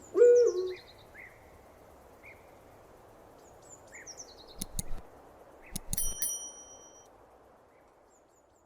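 One short owl hoot just after the start, over a background of small birds chirping and high descending twitters. Around the middle come a few sharp clicks, the last with a brief bright metallic ring, and the sound fades out near the end.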